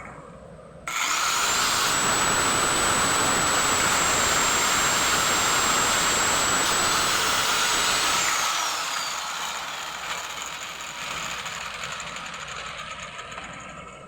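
A handheld power tool's electric motor switches on about a second in and runs at full speed with a steady high whine. Near the end it is released, and the whine falls in pitch as the motor spins down and fades.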